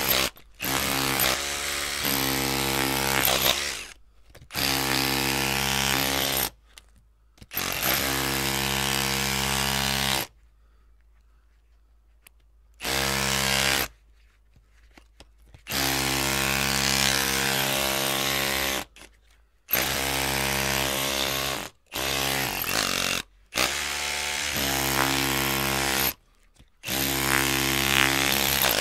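Electric drill running in repeated bursts, the trigger squeezed and released about ten times. Each run is a steady motor whine lasting from under a second to about three seconds, with short silent gaps between and a longer pause about ten seconds in.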